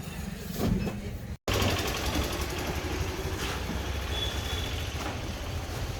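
A vehicle engine idling with a steady low rumble. The sound drops out for an instant about a second and a half in.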